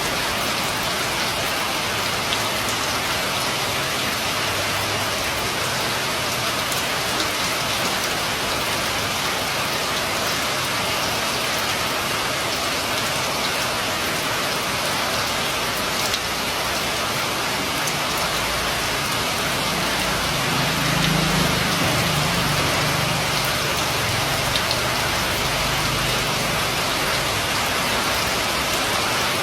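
Steady rain falling on a roof and street: an even hiss with scattered drop patter. A low rumble swells for a few seconds about two-thirds of the way through.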